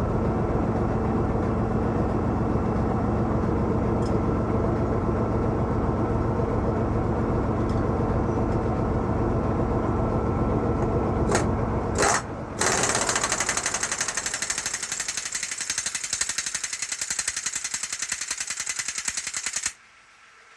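Pneumatic 3/4-inch impact wrench hammering on bolts in a fast, continuous rattle. About twelve seconds in the sound turns to a brighter, hissing rattle, and it stops suddenly near the end.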